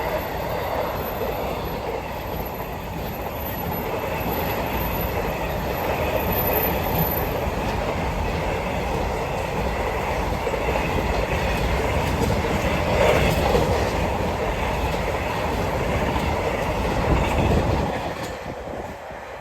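Freight train hauled by a Class 66 diesel locomotive passing close by, a steady, loud rumble of wagons and wheels on the rails that fades away near the end.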